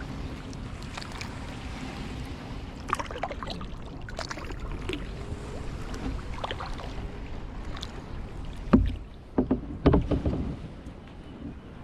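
Kayak paddle dipping into and pulling through lake water, with small splashes and drips over a low steady rumble. Near the end come a few louder, sharp knocks.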